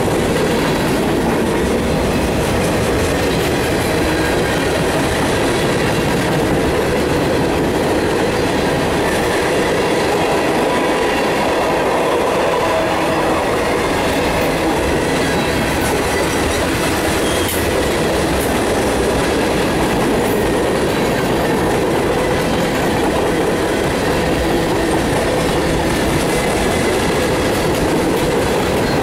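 Freight cars of a mixed freight train rolling past close by: a steady noise of steel wheels running on the rails.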